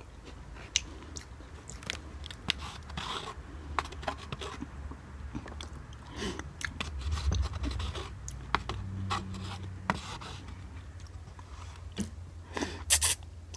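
A person chewing and eating forkfuls of noodles close to the microphone, with scattered wet clicks and smacks. There is a louder burst of them near the end.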